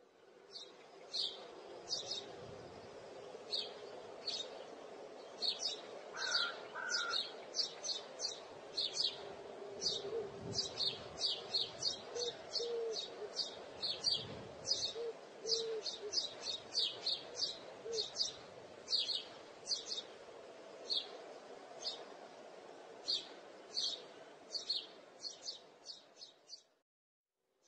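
Small birds chirping: short, high chirps, often two or three a second, over a steady low hum.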